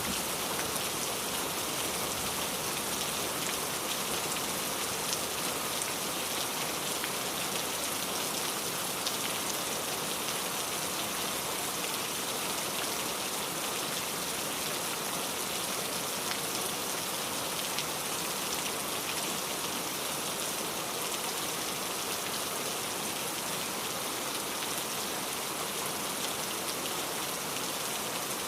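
Steady rainfall, a dense even hiss of raindrops with fine scattered drop ticks.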